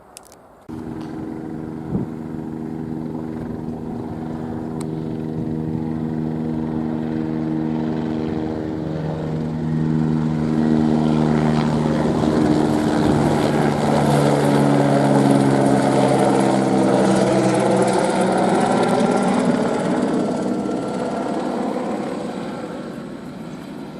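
Airbus AS350 single-turbine helicopter flying past. Its rotor and engine drone starts abruptly about a second in and builds to a peak around the middle, where its pitch drops. It then fades toward the end.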